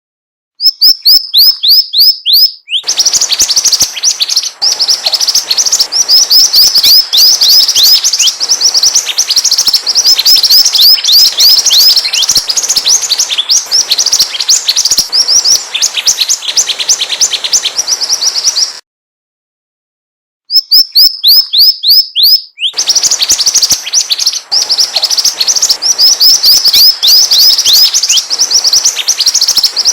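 Recorded song of a mantenan bird, played as a lure track: a rapid run of short, high chirps that sweep downward, several each second. The track cuts to silence just after the start and again about two-thirds of the way through, each time resuming with a quick string of chirps.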